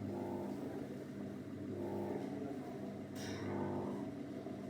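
Electric motor of a coin-operated kiddie ride fire engine running under load, a steady hum whose higher tones swell and ease about every second and a half.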